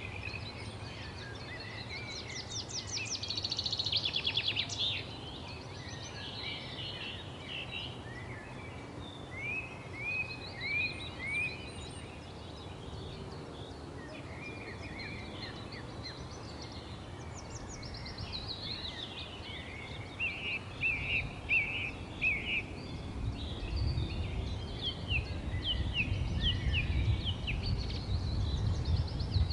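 Several songbirds chirping and singing: short high notes, runs of repeated down-sweeping chirps, and a fast trill a few seconds in. A low rumble builds under the birdsong in the second half.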